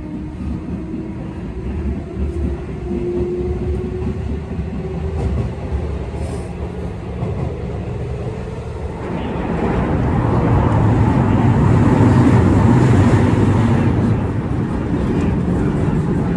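Train running on rails: a steady low rumble that swells louder and rougher about nine seconds in.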